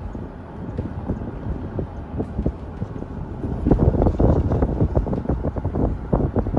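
Wind buffeting the microphone, an uneven low rumble that gusts louder about halfway through.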